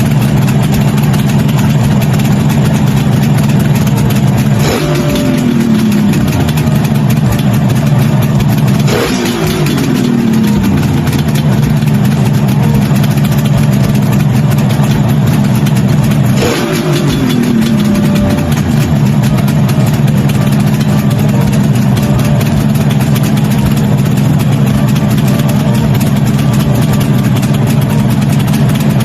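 Kawasaki Mach III two-stroke triple motorcycle engine idling just after a carburettor overhaul. It is blipped three times, the revs jumping up and sliding back down to idle each time.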